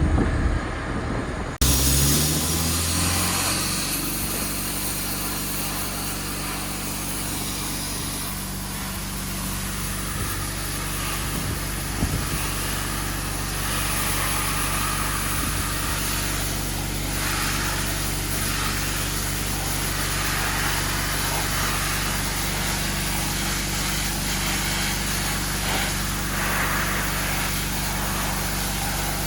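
A motor spins up over about two seconds, starting just after a sudden change in the sound near the start, then runs steadily under a constant hiss of air.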